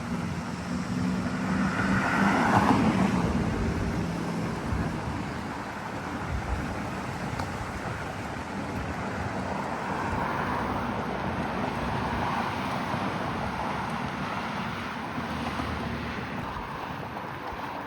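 Wind rushing over the microphone of a moving bicycle, with a louder swell of road noise about two to three seconds in.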